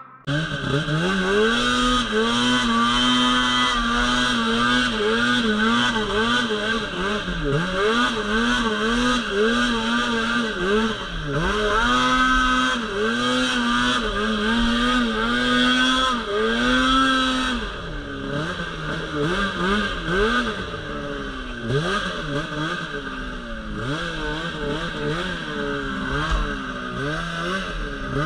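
Snowmobile two-stroke engine revving up and down over and over in quick throttle blips. After about 17 seconds the revs settle lower and the throttle work gets choppier.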